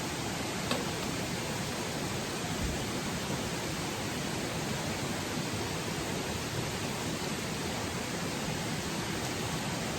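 Steady, even rushing noise with one faint click a little under a second in.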